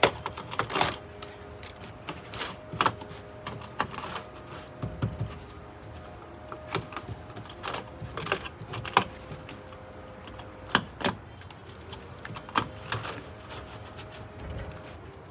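Irregular sharp clicks, taps and knocks, at uneven intervals, from hands and tools working at the camper's wooden wall panels. A faint steady hum runs underneath.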